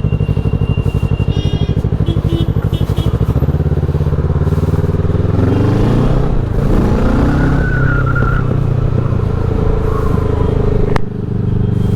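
Motorcycle engine idling with an even pulsing beat just after a cold start, then revved about halfway through, its pitch rising and falling, before settling back to steady running.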